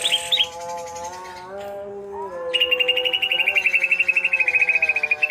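Cucak ijo (green leafbird) chattering: a fast, even trill of about ten notes a second, heard briefly at the start and again from about two and a half seconds in, over lower held notes that slide up and down.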